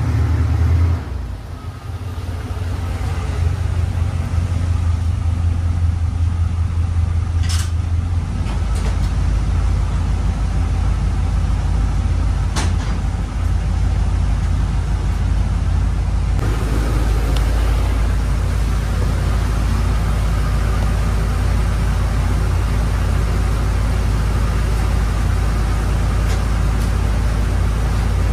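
Car engine running: a steady, loud low rumble that changes character about eight seconds in and again about sixteen seconds in, with a couple of faint clicks between.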